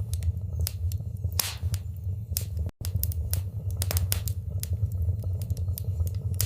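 Wood fire burning in a fireplace: irregular crackles and pops over a steady low rumble. The sound cuts out for an instant a little before the middle.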